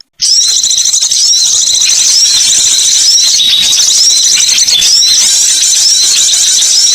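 Dense, high-pitched chirping and twittering of many small songbirds calling over one another, a bird-lure recording; the sound drops out for a moment at the very start, then runs on without a break.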